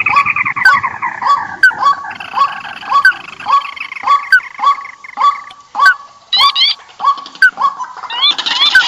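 Lure-call recording of rice-field birds calling noisily: a run of short, rising, honk-like notes about twice a second, with other birds' calls overlapping and a longer call falling in pitch at the start.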